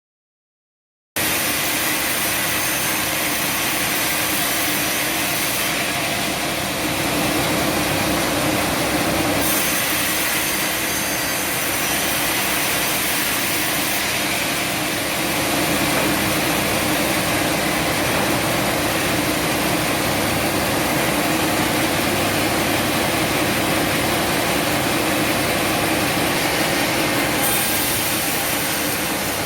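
Sawmill machinery running steadily. It starts abruptly about a second in, with a few sudden changes in the hiss that sound like cuts.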